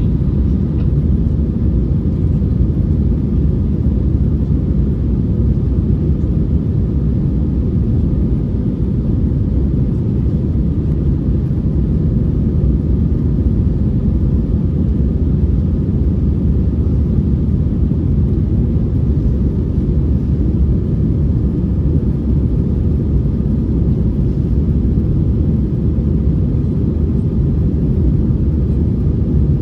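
Airbus A321 airliner's jet engines running during takeoff and climb, a steady low rumble with no change in pitch.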